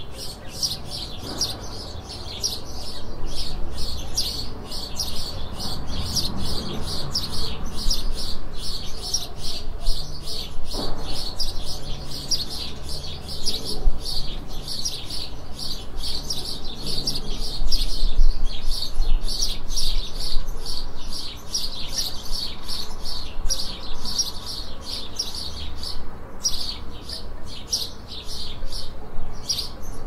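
Songbirds singing in a dense, near-continuous stream of quick high chirps, over a low steady background rumble.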